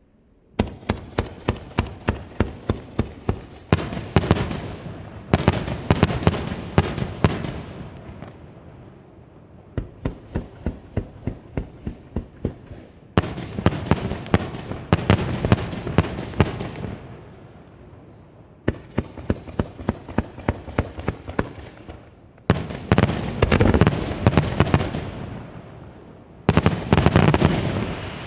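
Fireworks display: salvos of sharp bangs, several shells a second, fired in repeated volleys. Each bang trails an echoing tail.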